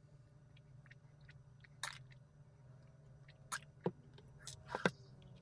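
Close-up eating sounds of someone chewing a donut: soft wet mouth clicks, with a few louder smacks about two seconds in and near the end.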